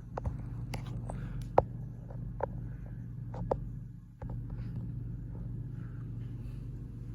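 Hunter Savoy ceiling fan running wobbly on high speed, giving a steady low motor hum. A few sharp clicks and ticks come in the first four seconds, and the level dips briefly about four seconds in.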